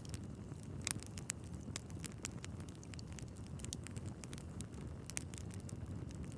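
Wood fire in a fireplace crackling: frequent irregular sharp pops and snaps over a low steady rumble of the flames, with louder pops about a second in and again about five seconds in.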